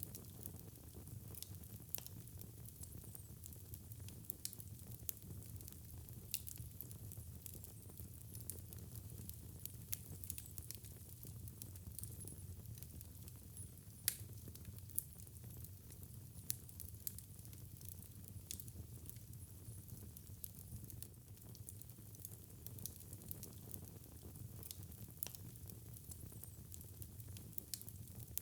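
Wood fire in a fireplace burning, with a steady low rumble and irregular sharp crackles and pops, one louder pop about halfway through.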